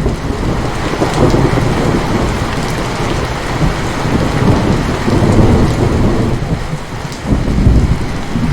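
Steady rain falling, with low thunder rumbling over it in several swelling waves, loudest near the end.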